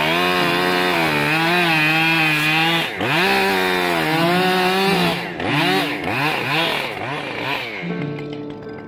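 Chainsaw running at high revs, its pitch wavering as it cuts. From about three seconds in, the revs drop and climb back several times in quick succession as the throttle is let off and opened again.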